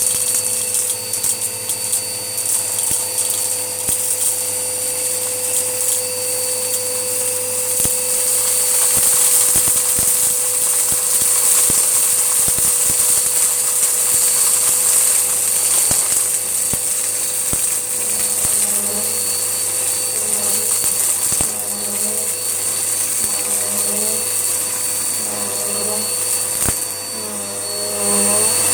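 Hoover Whirlwind upright vacuum cleaner running, with a steady motor whine and rush of air, and grit ticking and rattling as cat litter is sucked up. From about two-thirds of the way in, its tone wavers up and down about every second and a half.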